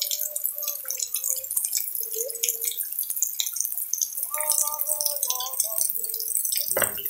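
Heavy rain falling and dripping, a dense patter of small irregular drips. A few short pitched calls sound in the background, and a brief louder rustle comes near the end.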